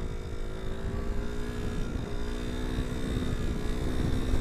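Suzuki SP250's single-cylinder four-stroke engine pulling at a fairly steady speed while the bike is ridden on gravel, its note dipping briefly about halfway through, with wind rumble on the microphone.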